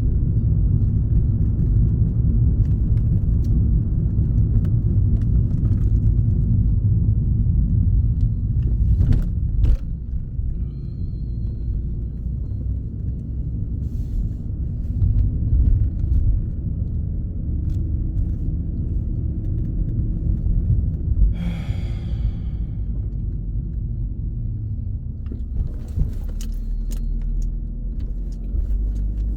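A car driving: a steady low rumble of engine and road noise, with a few light clicks and a short hiss about two-thirds of the way through.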